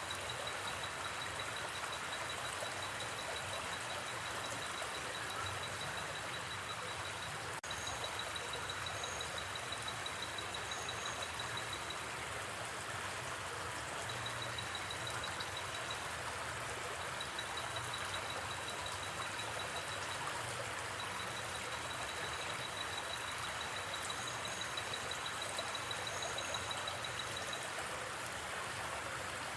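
Steady rush of a gently flowing river. Over it, a high, rapid chirping trill of night insects comes and goes in stretches, with a few short higher chirps.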